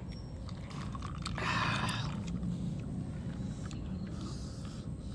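A person chewing and biting mouthfuls of grilled clams, with a brief louder noise about a second and a half in.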